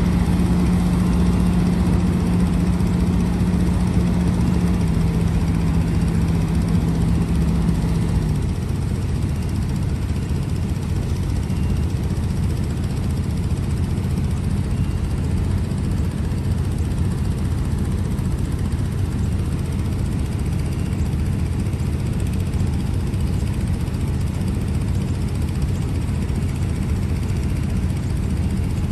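Heavy diesel machinery engine running steadily. A strong hum steps down slightly about five seconds in and drops away about eight seconds in, leaving a lower, even drone as the engine settles.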